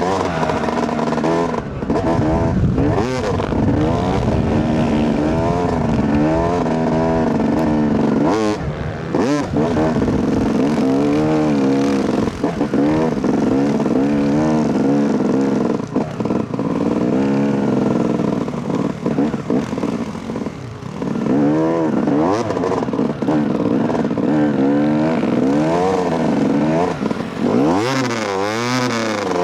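2008 Yamaha YZ250 two-stroke dirt bike engine under way, revving up and down over and over as the throttle opens and closes through the gears. It eases off briefly a couple of times and climbs steeply near the end.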